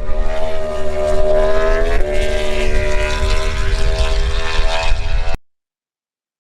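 Racing engine running at high revs, its pitch rising slowly, with a gear change about two seconds in. It cuts off suddenly near the end.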